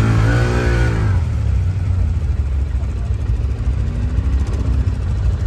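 ATV (quad bike) engine revving and easing off in the first second, then running steadily at low revs.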